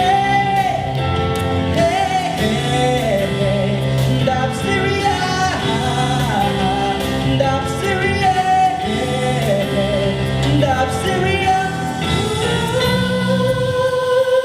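A singer with band accompaniment, the voice weaving a wavering melodic line, then settling on a long held note near the end.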